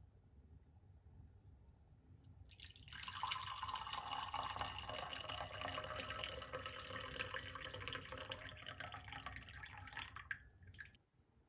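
Water running from a tap, a steady splashing rush that starts about three seconds in and is shut off abruptly near the end.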